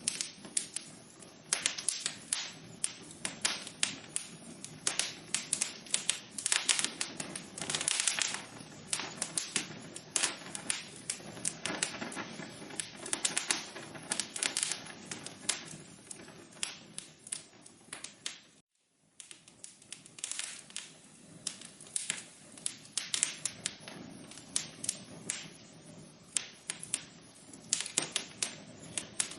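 Wood fire crackling in a fireplace: irregular sharp pops and snaps over a soft steady hiss. The sound drops out completely for a moment about nineteen seconds in.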